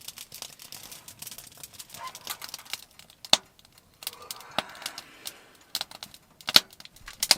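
Rustling and crinkling with scattered sharp clicks and snaps, two of them louder, a third and most of the way through.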